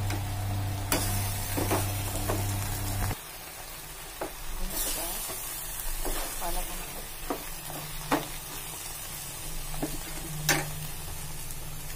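Spinach and onion masala for palak paneer sizzling in a pan, with a steady low hum that cuts off about three seconds in. After that a spoon stirs the thick mixture, scraping and clicking against the pan now and then, with a sharp knock near the end.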